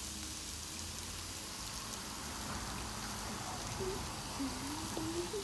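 Marinated meat sizzling on a barbecue grill, a steady fine crackle, with a faint voice briefly about four seconds in.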